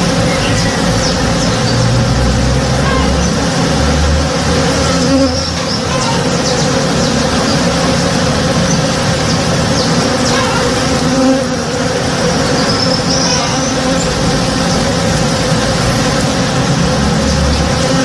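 Many honey bees buzzing steadily together as they forage on a tree in bloom: a dense, even drone.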